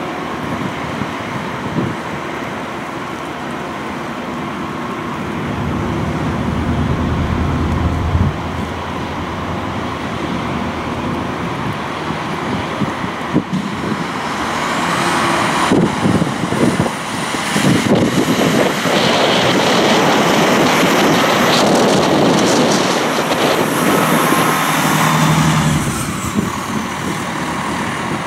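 Diesel train running at a station platform, its engine noise growing louder about halfway through as the train works, with a high-pitched whine that rises, holds for several seconds and then falls away before the noise drops back.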